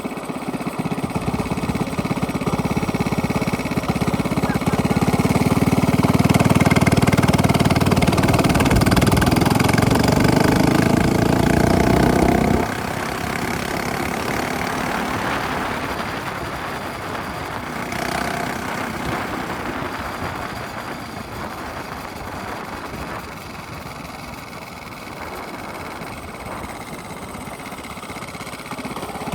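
Minibike's small engine through a straight-pipe exhaust, running hard with its pitch climbing as it accelerates. About twelve seconds in it cuts back suddenly to a quieter, steadier run.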